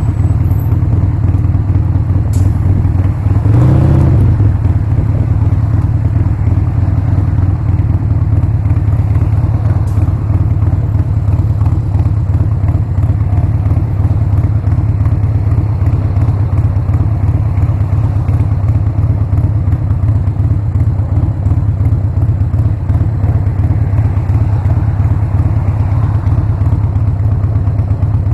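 Harley-Davidson Sportster V-twin engine running steadily under way, with a brief rise and fall in revs about three to four seconds in.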